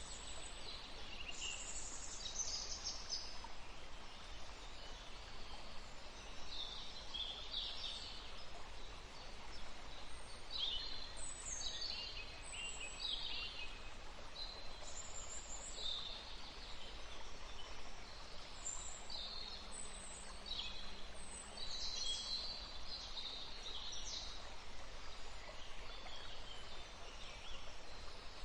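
Several small songbirds chirping, with short high-pitched calls coming every second or two over a steady background hiss.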